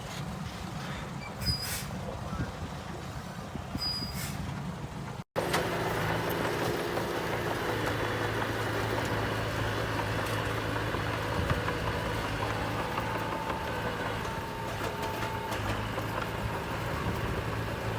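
Diesel engine of heavy earthmoving machinery running steadily, with two short sharp sounds in the first few seconds. There is a brief dropout about five seconds in, after which the engine runs louder.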